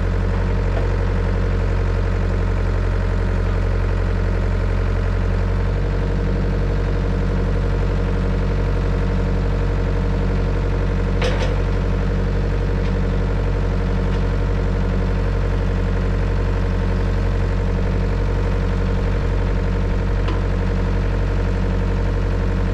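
Diesel engine idling steadily, with a single sharp clank about eleven seconds in.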